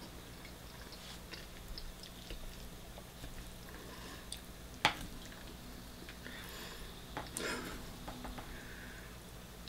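Quiet chewing of soft food with wet mouth sounds, while metal cutlery scrapes and taps in a plastic food tray; one sharp click about five seconds in.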